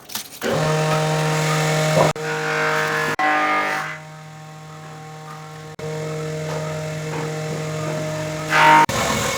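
An electric power tool's motor running at a steady pitch, heard in several short stretches that cut off and restart abruptly, quieter for a couple of seconds in the middle.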